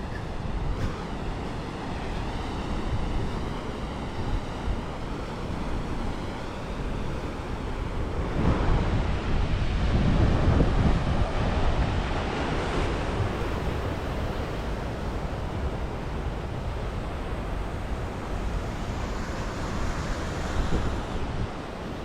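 Sea waves washing onto the shore, with wind buffeting the microphone; one wave surges louder about halfway through.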